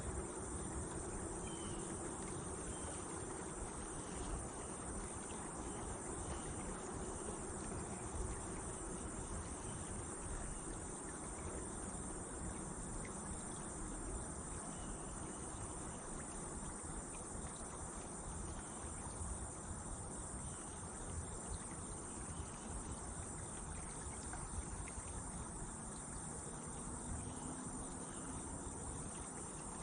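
A steady, continuous chorus of insects such as crickets, with a low rumble beneath it.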